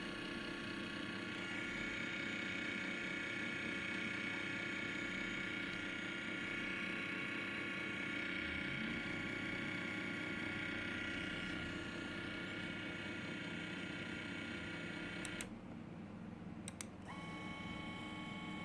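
Small brushless motors of a 3B-R micro quadcopter spinning with a steady whine of several high tones, unusually loud for their size; the owner takes the noise for worn-out bearings. About fifteen seconds in the whine cuts out, there are two short clicks, and then the motors run steady again at a different pitch.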